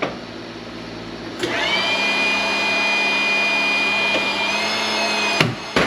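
Electric hydraulic pump of an old, worn scrap press starting up with a short rising whine and running steadily for about four seconds as the ram pushes on a small transformer. There is a click at the start and a sharp crack near the end, as the pump cuts off.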